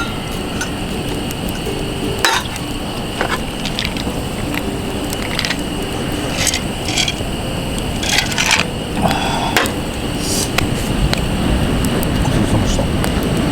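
Steady seaside wind and surf noise, with scattered light clinks and taps of dishes and cooking utensils.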